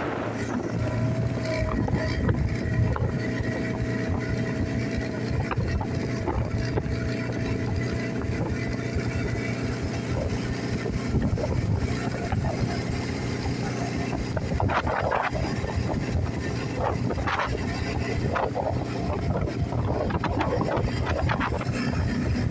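ATV engine running steadily while riding along, with some wind on the microphone.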